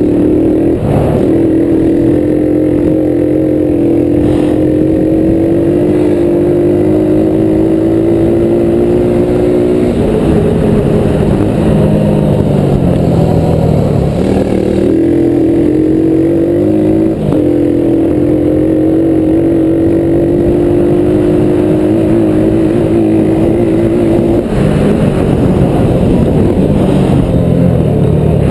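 Small single-cylinder four-stroke off-road engine running under throttle at steady high revs. The pitch creeps up, drops off about ten seconds in, sinks lower for a few seconds, climbs back and jumps up again, then holds before easing off near the end.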